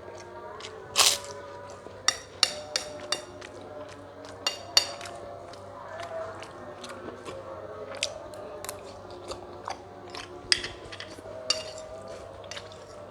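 Close-miked crunching and chewing of crisp food: a series of sharp, irregular bites, the loudest about a second in, with softer chewing between them.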